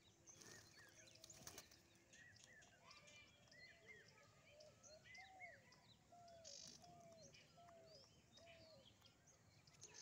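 Faint bird calls over a quiet outdoor background: a series of short, arching chirps, a little under two a second, from about halfway through to near the end.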